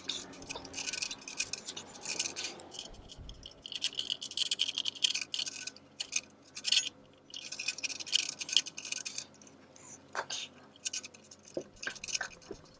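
Irregular metallic clinking and scraping from hand work on a van's exhaust, as an exhaust clamp is fitted around a new flex pipe, with a few sharp clicks near the end.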